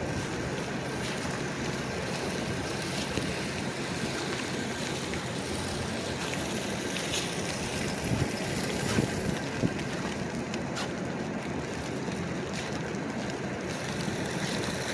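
Steady city street noise: traffic mixed with wind on the microphone, with a few faint clicks and knocks.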